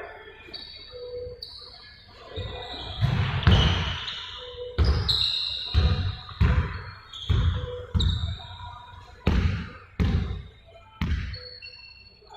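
A basketball bouncing repeatedly on a hard gym floor, a thud about every two-thirds of a second, with short high squeaks in between.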